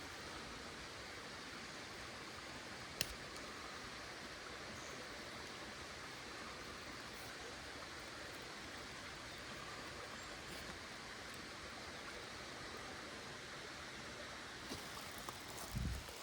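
Small stream flowing steadily, an even rushing hiss, with a single sharp click about three seconds in and some rustling and a soft thump near the end.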